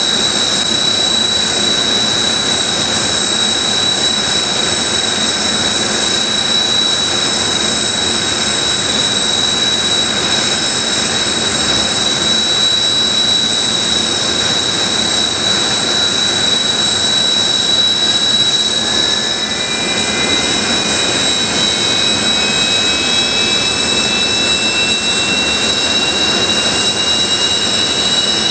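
Kawasaki T-4 jet engines (F3 turbofans) whining steadily at ground idle. From just over halfway through, a further rising whine is heard as another engine spools up during its start.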